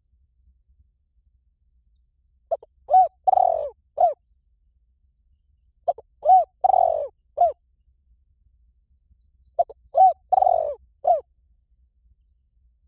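Spotted dove cooing: three phrases of four or five short, rising-and-falling coos, about three and a half seconds apart. It is the call used to lure wild spotted doves.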